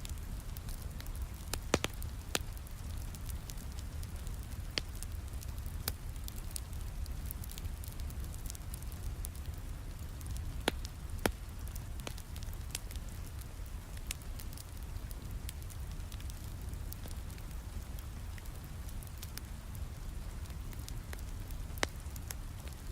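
Wood fire crackling in a fireplace, with sharp pops at irregular intervals, over steady rain and a low rumble.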